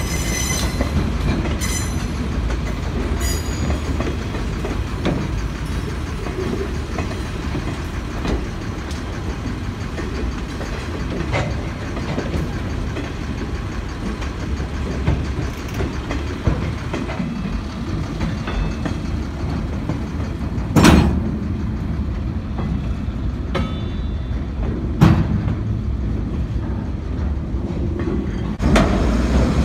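Freight cars rolling slowly past on the rails, with a steady low rumble of wheels on track. Sharp clanks sound about two-thirds of the way in, again a few seconds later, and near the end.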